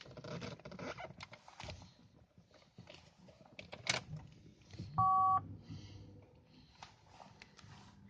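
Scattered clicks and handling knocks, then about five seconds in a short, loud electronic beep of two steady tones sounding together for under half a second, followed by a faint low steady hum.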